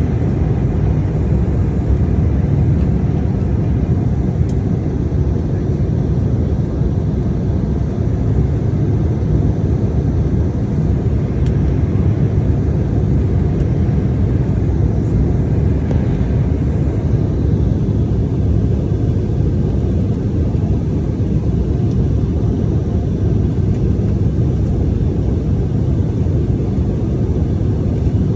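Steady low rumble inside the cabin of an Embraer E175 airliner under power, the noise of its two CF34 turbofan engines and the airflow.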